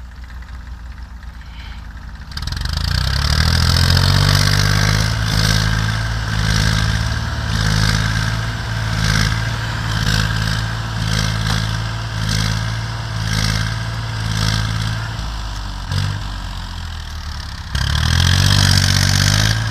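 Lada Niva's engine revved hard by hand at the throttle under the open bonnet, its wheels spinning in snow as a tractor pulls it out on a chain. The revs climb steeply about two seconds in and hold high with a wavering pitch. They sag briefly near the end, then climb again.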